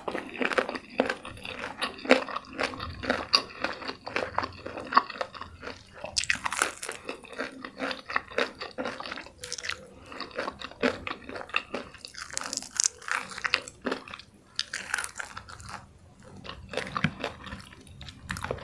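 Close-miked eating sounds: crunchy bites and chewing of a crispy fried chicken meal, with many quick crunches and a few louder bite clusters.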